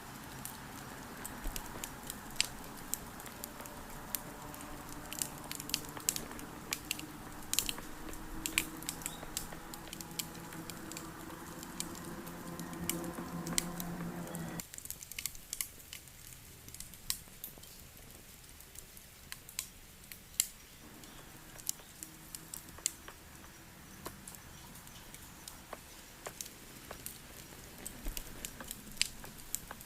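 Campfire crackling: irregular sharp pops and snaps throughout. Underneath, a low background hum with faint steady tones cuts out abruptly about halfway through and returns some six seconds later.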